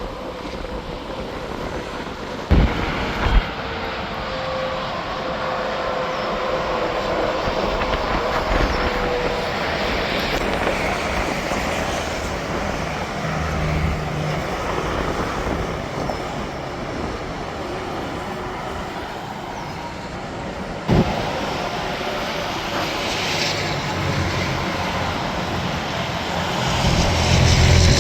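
Interstate highway traffic passing: a steady rush of tyre and engine noise from trucks and cars, with a tone that slowly falls over the first ten seconds as a vehicle goes by. There are three short, sharp thumps, two close together a couple of seconds in and one about twenty-one seconds in. Near the end a louder vehicle approaches with a deeper rumble.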